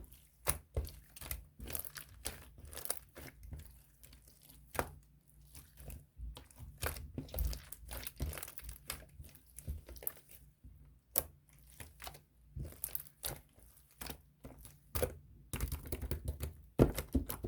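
Crinkly material being handled, giving a steady run of rustles, crinkles and small sharp clicks and taps.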